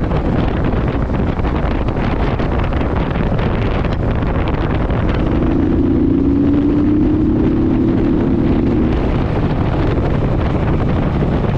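Wind buffeting the microphone while riding a Honda VTX1800, its big V-twin engine running underneath as a steady low rumble. About halfway through, a steady low hum rises above the noise for some four seconds.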